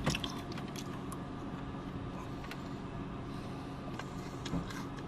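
Steady low hum of a car engine idling, with a few faint clicks.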